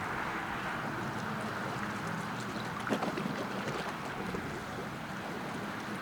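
Steady low rumble and water noise of the steamship SS Alpena, a 1942 Great Lakes cement freighter, passing on the river, with one short knock about three seconds in.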